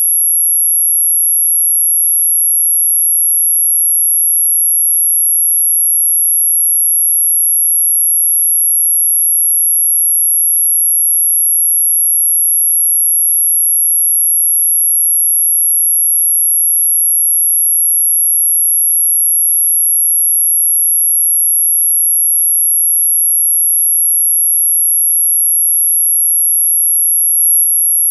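Synthetic anti-mosquito repellent tone: one steady, very high-pitched pure whine that holds the same pitch and level without a break.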